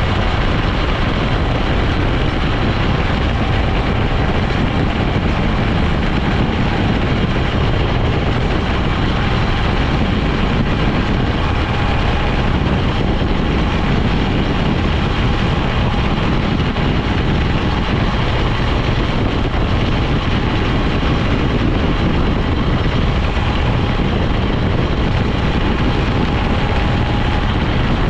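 A vehicle on the move at a steady speed: constant engine and road rumble with a faint steady whine.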